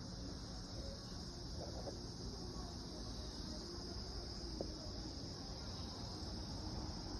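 Steady high-pitched insect chirring, unbroken throughout, over a low background rumble.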